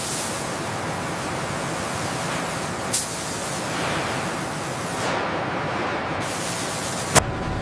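A steady, loud hissing noise, like spraying or blasting, broken by two sharp clicks, one about three seconds in and one near the end.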